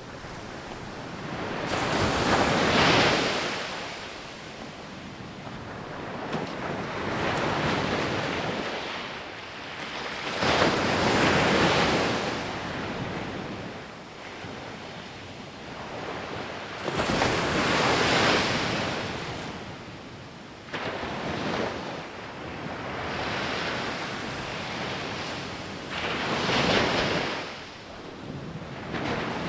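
Ocean waves breaking and washing up a beach, the surf swelling and fading in about six surges, the biggest about three seconds in, around eleven seconds and around eighteen seconds.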